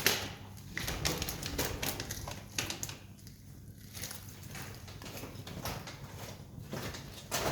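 Wood campfire crackling, with irregular sharp pops; the loudest pop comes right at the start and another near the end.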